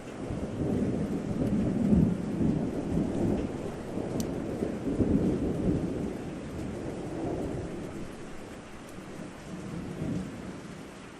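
A long roll of thunder over steady rain: the rumble swells just after the start, peaks twice, and dies away near the end while the rain keeps on.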